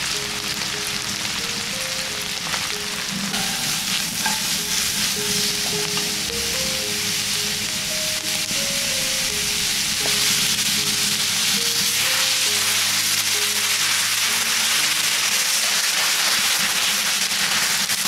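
Sliced mushrooms, onion and olives sizzling in oil in a metal pan over a fire, the frying growing louder about ten seconds in. A quiet melody plays underneath.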